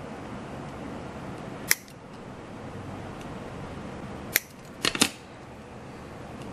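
Scissors snipping in a few short, sharp cuts: one about two seconds in, another past the middle, and a quick pair soon after, over a steady hiss.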